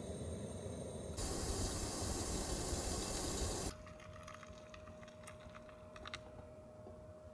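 Steady hiss of heavy rain, growing louder about a second in and cutting off abruptly about halfway through. After that comes a much quieter stretch with a faint steady hum and a few light clicks.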